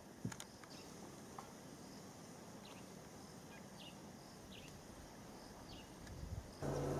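Faint open-air bush ambience with scattered short, high, falling chirps and a single click about a quarter-second in. Near the end a louder steady low hum starts abruptly.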